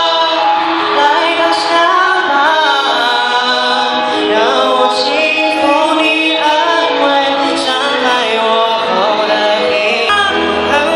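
Music with singing, a woman's voice most prominent, several voices sounding together.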